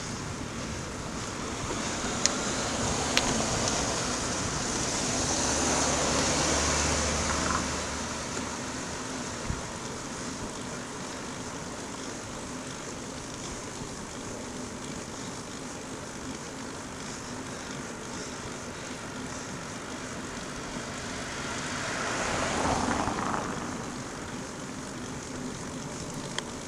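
Road traffic: one vehicle passes, swelling and fading about five seconds in, and another passes a little after twenty seconds, over a steady background hiss.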